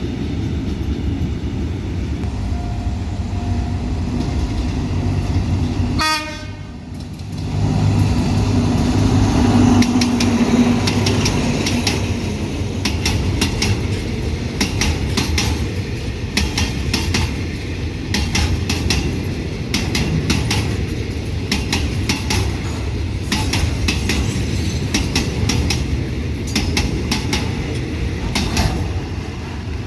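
A State Railway of Thailand diesel train passing close by, its wheels clicking rapidly over the rail joints. A train horn sounds about ten seconds in.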